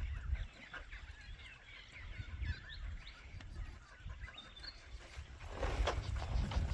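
Birds chirping and calling in many short, quick notes, over a low wind rumble on the microphone. A louder burst of rustling noise comes about five and a half seconds in.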